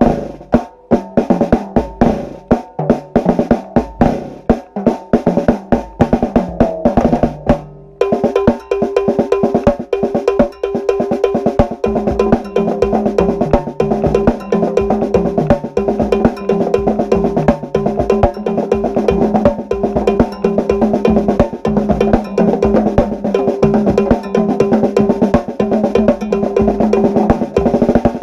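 A drum ensemble of snare and bass drums playing a rhythmic groove. Spaced strokes give way, after a brief break about eight seconds in, to a faster, denser pattern.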